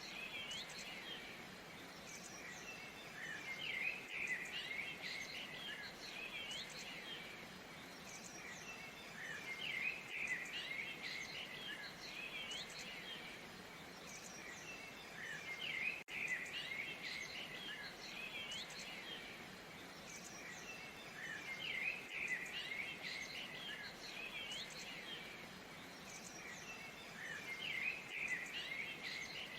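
Small songbirds chirping and twittering, gathering into busier bursts every few seconds, over a faint, even rush of falling water.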